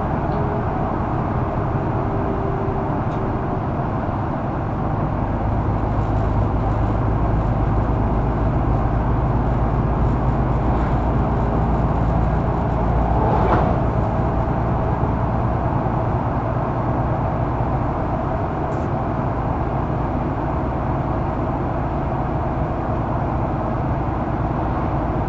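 Mercedes-Benz O530 Citaro facelift intercity bus heard from inside the passenger cabin: steady diesel engine and drivetrain rumble with road noise. A brief, louder, higher-pitched sound comes about halfway through.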